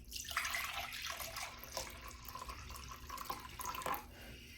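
Vinegar being poured for a pickling brine: a steady stream of liquid that starts abruptly and stops about four seconds in.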